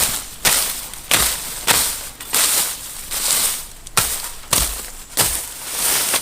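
A hand tool striking over and over at an even pace, just under two strokes a second, each a sharp hit followed by a short scraping rush.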